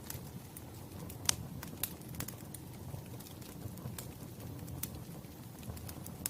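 Wood fire crackling: scattered sharp pops and snaps over a steady low rumble of the burning logs, the loudest pop about a second in.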